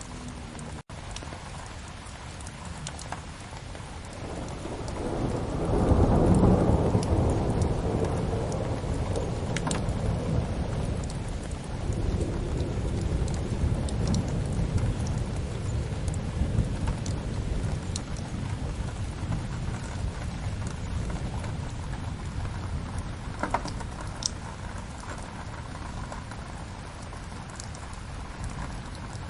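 Steady rain with a low roll of thunder that swells from about four seconds in, is loudest around six seconds, and fades slowly over the next fifteen seconds or so. Scattered sharp crackles from a wood fire run through it, and the sound cuts out for a split second just under a second in.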